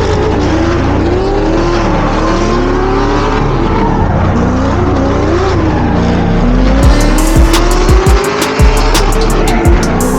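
Drift cars sliding, engines revving up and down and tyres squealing, over music with a heavy bass. A steady drum beat comes in about seven seconds in.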